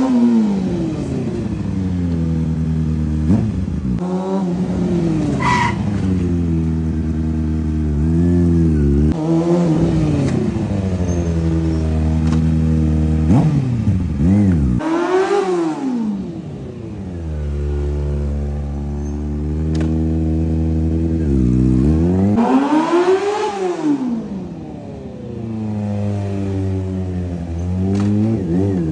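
High-revving vehicle engine accelerating and revving, its pitch repeatedly climbing and dropping back as it shifts, twice sweeping up to a high peak and falling away. There is one sharp pop about five seconds in.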